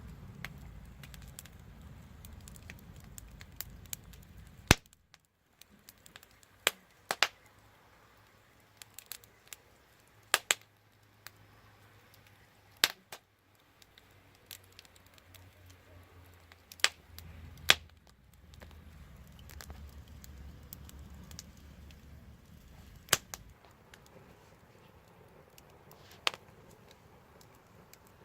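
Wood fire crackling, with sharp pops from the burning wood every couple of seconds at irregular intervals. A low rumble comes and goes under the pops, near the start and again in the middle.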